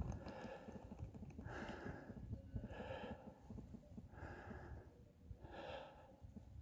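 A person breathing hard while climbing on foot, a breath about every second and a half.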